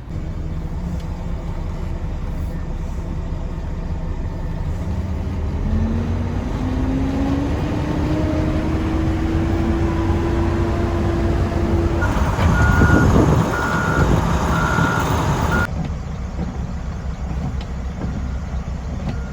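Diesel engine of a Mack plow truck running, its pitch rising over a few seconds as it revs. About twelve seconds in, a reversing alarm beeps steadily for a few seconds over louder engine noise, then the sound changes abruptly.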